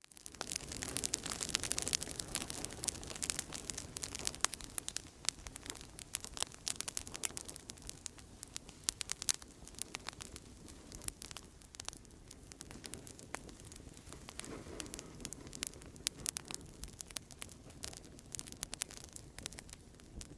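Outdoor campfire crackling steadily, with many sharp pops and snaps over a soft hiss of burning wood, busiest in the first few seconds.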